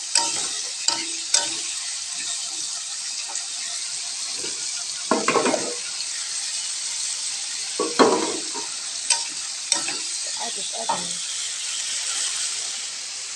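Jengkol in chili paste sizzling in a wok while a metal spatula stirs it, scraping and knocking against the pan every second or two. The longest scrapes come about five and eight seconds in.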